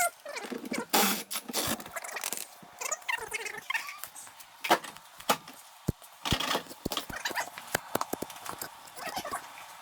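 Hand tools clinking and knocking against metal in irregular strikes, with a few short squeaks, while rusty seat bolts are worked loose from under a 1964 Ford Falcon's floor.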